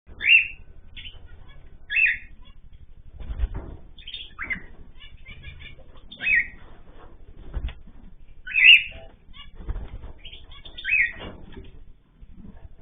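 Cage birds calling: six loud, short, downward-sweeping calls roughly every two seconds, with a few low thumps in between.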